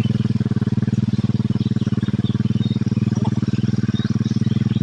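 Bored-up Honda Tiger single-cylinder four-stroke engine with a Jaguar 250 cylinder head, running steadily at an even speed without revving. Birds chirp over it now and then.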